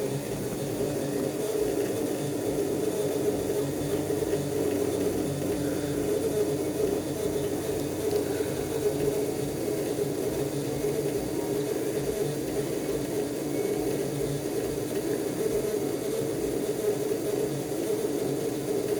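Electrolux LAC13 13 kg top-load washing machine filling its tub with water, a steady rush of incoming water on weak household water pressure, the tub almost at its set level.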